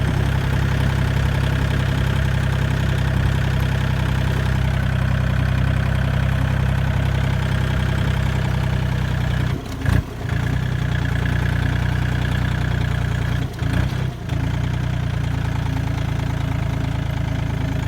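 Diesel tractor engine running steadily at a low, even note, with two brief drops in sound about ten and fourteen seconds in.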